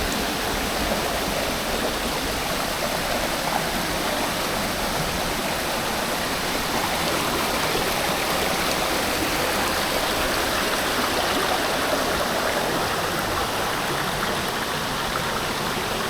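Stream water rushing steadily over rocks, an even, unbroken wash of sound.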